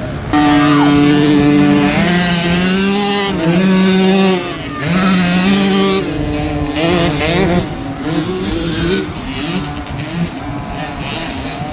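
Small youth dirt bike engines racing. One bike comes in loud and close just after the start, its revs falling and climbing again several times. After about six seconds it is fainter and mixed with other bikes.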